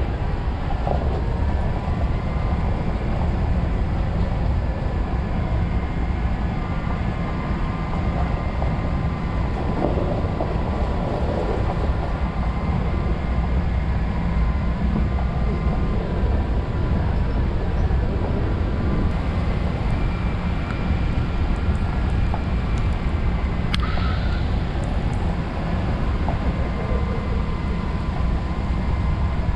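Steady low rumble of a vehicle driving on a rough dirt road, heard from inside the cab, with a faint whine and a single sharp click late on.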